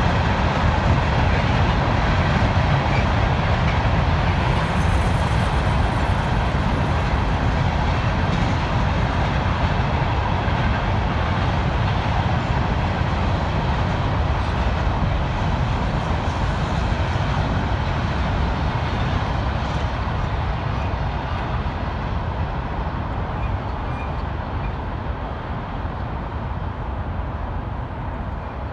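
Empty freight hopper cars rolling past, a steady rumble of steel wheels on the rails that slowly fades over the last several seconds.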